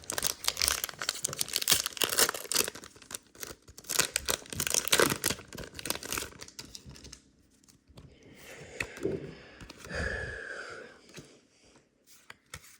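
A foil Pokémon booster pack wrapper being torn open and crinkled, with dense crackling for about the first seven seconds, then quieter handling.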